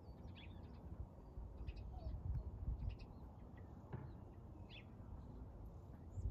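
Faint, scattered bird chirps over a low, steady rumble.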